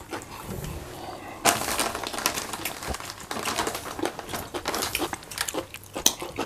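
Close-miked eating sounds: wet chewing and lip-smacking, with squelching as fufu and soup are handled by hand. The sounds thicken into a dense run of small wet clicks from about a second and a half in.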